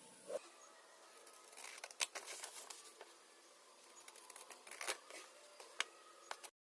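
Irregular clicks, taps and scraping from small parts being handled close to the microphone, with the sharpest clicks about two seconds in and again near five seconds. The sound cuts off abruptly just before the end.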